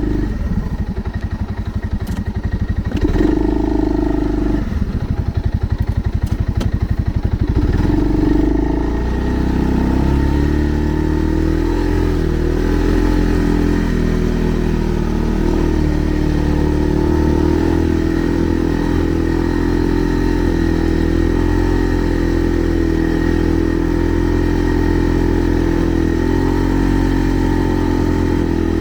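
Segway Snarler 570 ATV engine running: uneven and pulsing for the first several seconds, then picking up about ten seconds in and holding a steadier, higher note.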